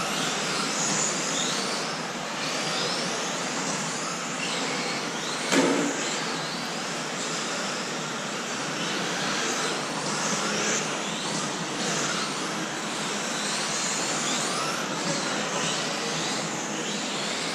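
Several electric RC racing trucks with brushless motors running on the track, their motors whining in short rising and falling glides as they accelerate and brake, over steady tyre and drivetrain noise. A single sharp knock about five and a half seconds in.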